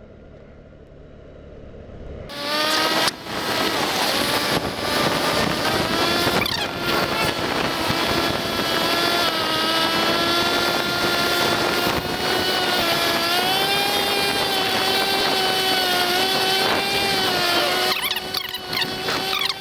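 Scooter engine pulling away about two seconds in, its pitch rising and then holding steady at riding speed, with heavy wind noise on the microphone.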